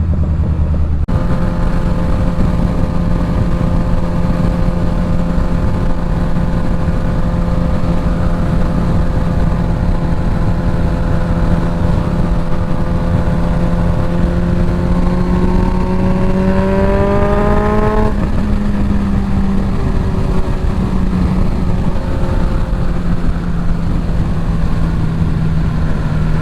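Suzuki GSX-S1000 inline-four with a full Dominator exhaust, heard on board while riding: the engine holds a steady note, climbs in pitch over a few seconds past the middle, drops suddenly about two thirds through, then settles back to a steady note, over a constant rush of wind.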